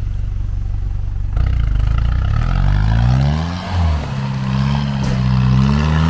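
Off-road 4x4's engine running steadily, then about a second and a half in revving up hard, its pitch climbing, dipping and climbing again as the driver works the throttle to get through the obstacle, with a rushing noise over it.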